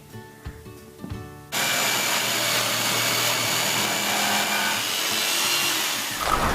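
Power saw cutting out a shape in a wooden board. It starts abruptly about a second and a half in, runs steadily and loudly, and dies away near the end, with light background guitar music before it.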